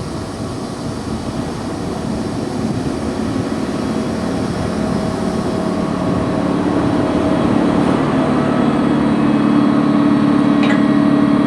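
Train approaching along the platform, its steady rumble and hum growing louder throughout, with a light click about ten seconds in.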